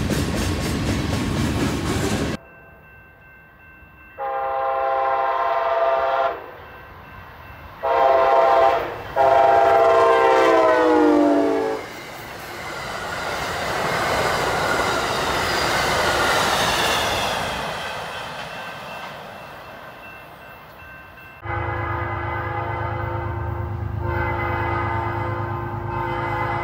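A freight train rolls by with wheel clickety-clack for a couple of seconds. After a cut, an Amtrak passenger train sounds its horn in three blasts: a long one, a short one, then a long one whose pitch drops as the locomotive passes. The passenger cars then rush past, the rolling noise swelling and fading away.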